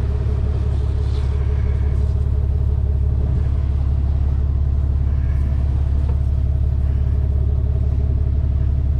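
Steady low rumble of an idling engine with a constant hum, unchanging in pitch.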